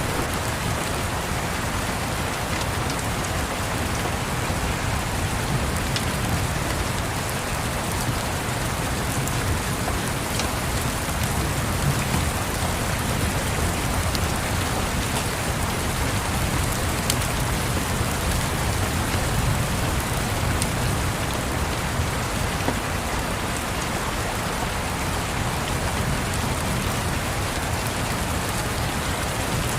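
Steady rain with a low rumble underneath and a few faint crackles from a fireplace fire scattered through it.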